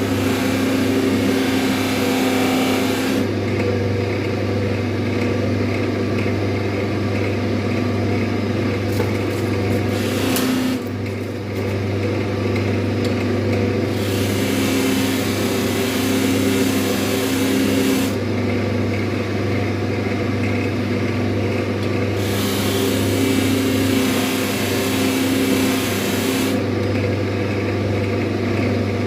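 Motor-driven buffing wheel charged with polishing compound running steadily, with a chisel bevel pressed against it in three spells, each adding a hiss over the motor hum while the edge is honed to a burr-free mirror finish. A brief clatter comes a little before the middle.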